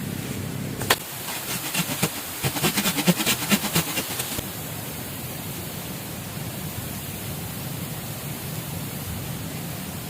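Steady rush of flowing river water, with a sharp knock about a second in and a quick run of sharp knocks or cracks from about one and a half to four seconds in.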